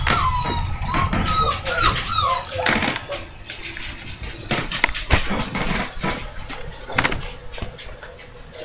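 Four-week-old puppies whining and squeaking, a rapid string of short high cries over the first three seconds, then scattered rustling and clicks.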